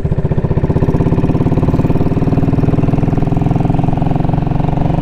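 Royal Enfield Classic 500's single-cylinder engine and unbaffled exhaust running steadily under way, the note slowly rising a little in pitch.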